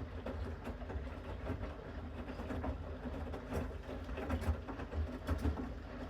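Bosch Series 6 washing machine in its main wash: the drum turning and tumbling the wet load, a steady rumble with irregular low thumps.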